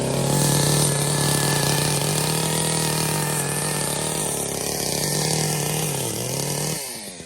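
Brand-new two-stroke chainsaw, running on 50:1 fuel mix, running at a high steady speed. Its pitch dips briefly about six seconds in, and then it drops away near the end.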